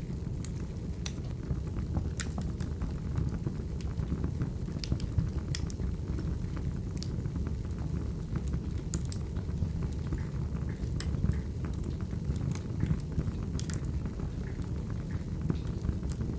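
Burning firewood crackling: a steady low rumble of flames with scattered sharp pops and snaps.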